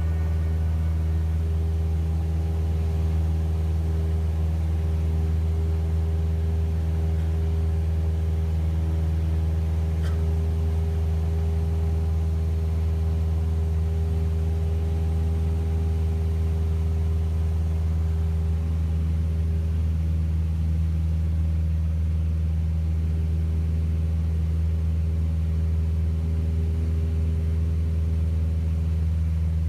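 Cessna 172S's four-cylinder Lycoming piston engine and propeller running steadily in flight, a constant low drone heard from inside the cabin.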